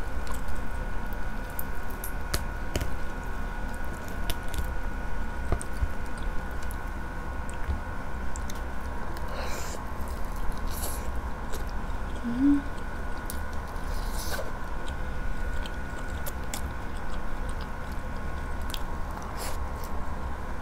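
Close-up mouth sounds of someone biting into and chewing grilled chicken: wet chewing with many small clicks and a few sharper bites near the middle, over a steady faint hum.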